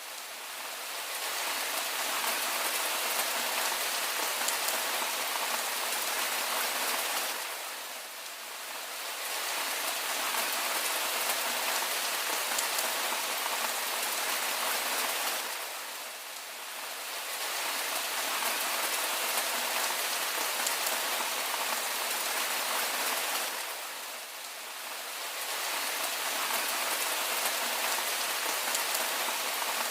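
Steady rain falling on a surface, an even hiss of many drops, easing briefly about every eight seconds before returning to full strength.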